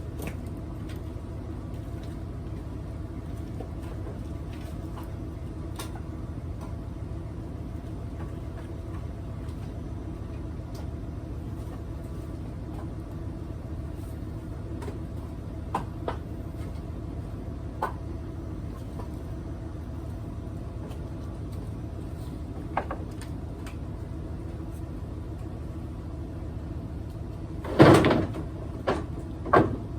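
A steady low rumble like a running engine, with scattered light clicks. A loud bang about two seconds before the end, then two smaller knocks.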